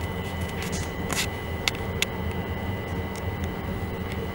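Interior of a London Overground Class 378 electric train on the move: a steady low rumble with a thin constant whine above it, and a few sharp clicks and rattles about a second and two seconds in.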